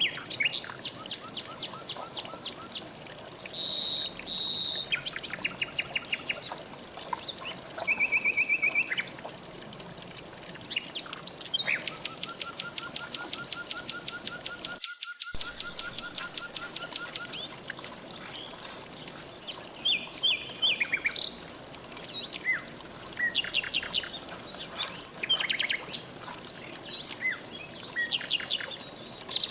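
Several songbirds calling and singing, mostly fast-repeated trills and short whistled phrases that overlap one another. Underneath is a steady high hiss with faint flowing water. The sound drops out completely for a moment about halfway through.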